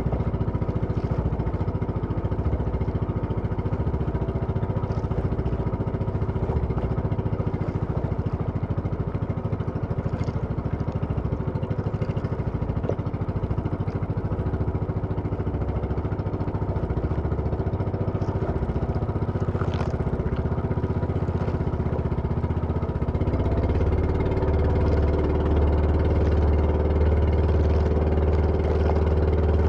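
Engine running steadily, its low hum growing stronger and a little louder about two-thirds of the way through.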